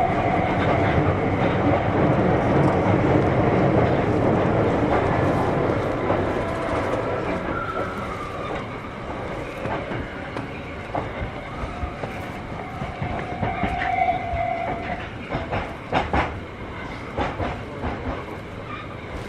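Kita-Osaka Kyuko 8000 series train running, heard from inside the car: steady rolling noise with rail-joint clatter. It grows quieter from about six seconds in, with a few faint whining tones and sharp clicks in the second half.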